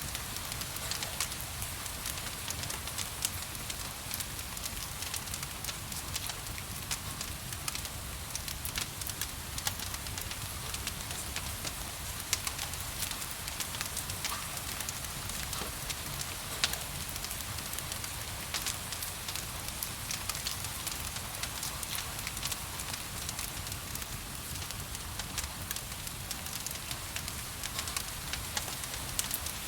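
Fireplace fire crackling, with frequent irregular sharp pops and snaps, over a steady hiss of gentle rain.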